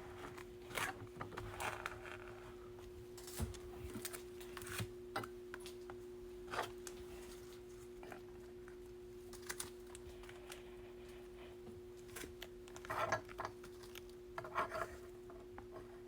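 Baseball cards being handled and sorted by hand: faint scattered clicks and brief rustles, with two short rustling flurries near the end, over a steady background hum.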